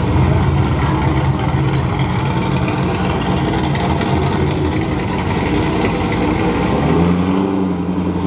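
Chevrolet Corvette C7's V8 engine running low and steady as the car rolls away at walking pace.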